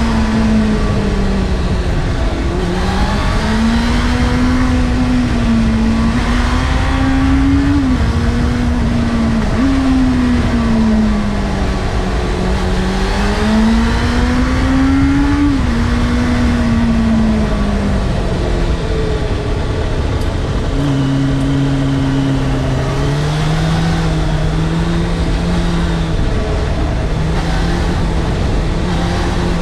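Honda CBF600's inline-four engine heard from on board while riding, the revs climbing and falling again and again, with sudden drops in pitch at gear changes. In the last third it settles to a lower, steadier note. Heavy wind rush over the microphone throughout.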